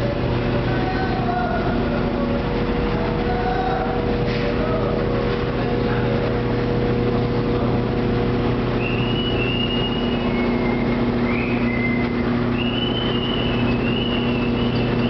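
Garrafón jug-washing machine running: its electric water pumps and wash cycle make a steady mechanical drone with a constant low hum.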